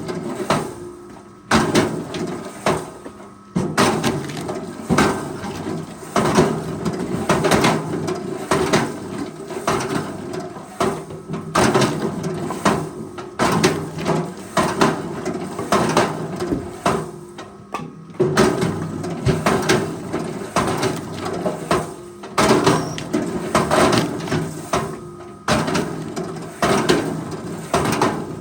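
Forestry machine at work on timber: a steady machine running under dense, repeated cracks, knocks and splintering of wood, with brief lulls now and then.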